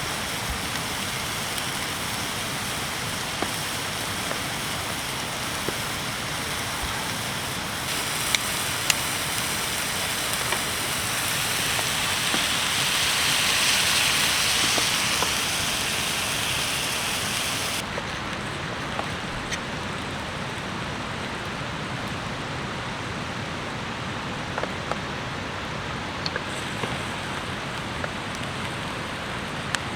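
Steady rain falling, with scattered sharp ticks. The hiss swells and brightens in the middle, then drops off abruptly about eighteen seconds in.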